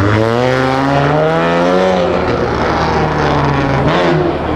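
Car engine under throttle: its pitch climbs for about two seconds, then drops and holds steady, falling off again near the end.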